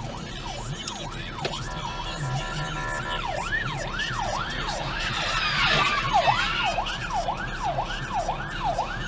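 Emergency vehicle siren wailing in a fast yelp, its pitch rising and falling about twice a second, with a short stretch of steady tone before the yelp settles in. A burst of hiss sits over it around the middle.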